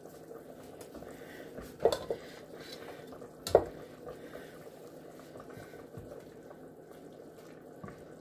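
Chicken and vegetables simmering in an Instant Pot, with a spoon knocking against the pot twice, about two and three and a half seconds in.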